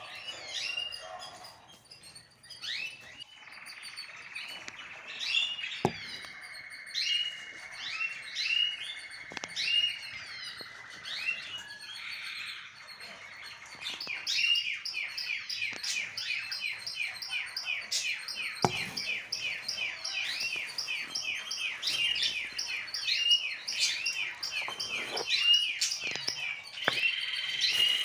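Small birds chirping and twittering, breaking into a fast run of repeated chirps about halfway through, with a couple of sharp taps.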